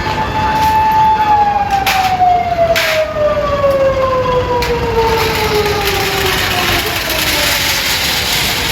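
Fire engine siren wailing on one tone, then sliding slowly down in pitch over several seconds, with a few sharp knocks and traffic noise around it.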